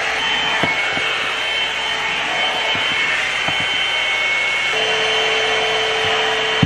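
Aima Beauty One-Step hot air brush running steadily on its cool setting: a constant rush of blown air with a motor whine that steps up in strength about two thirds of the way through, and a few faint ticks.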